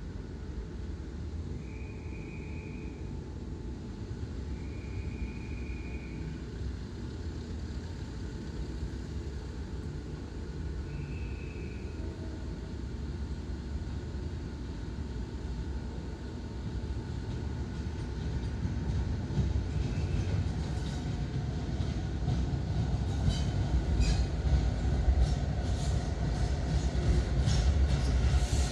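Diesel train approaching, its rumble growing steadily louder, with a few brief high-pitched tones early on and wheel clicks over the rail joints building near the end.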